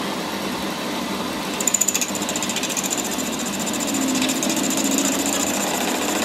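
A power tool running steadily with a fast rattling buzz, a high whine joining in under two seconds in.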